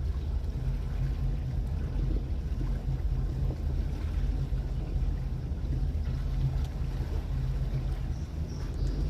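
A boat's engine runs at a steady speed under way, a low hum with water and wind noise over it.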